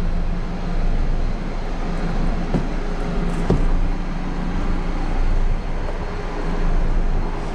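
Steady rushing noise with a low mechanical hum from the car wash's running equipment, with a couple of faint knocks.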